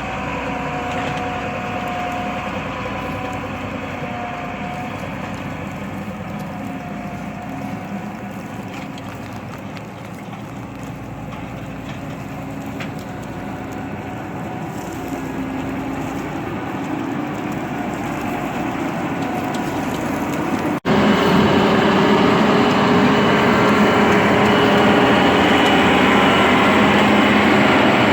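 John Deere 9610 combine's diesel engine running steadily while it travels, its pitch drifting slowly. About twenty seconds in, after a sudden break, it is louder.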